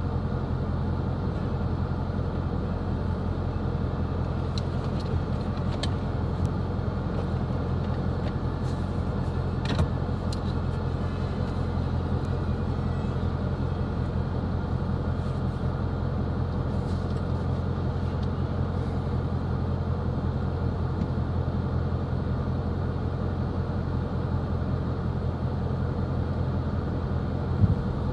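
Steady road and engine noise inside a moving car's cabin: a low, even drone of engine and tyres, with a couple of faint clicks about six and ten seconds in.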